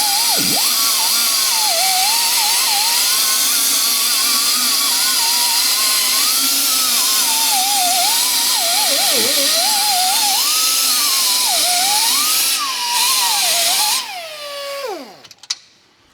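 Power drill running hard, its whine wavering up and down in pitch as the load changes, then spinning down with a falling pitch near the end.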